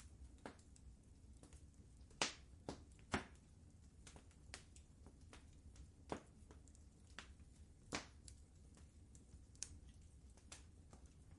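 Wood fire crackling in a fireplace: irregular sharp pops and snaps, a few louder than the rest, over a faint steady low rumble.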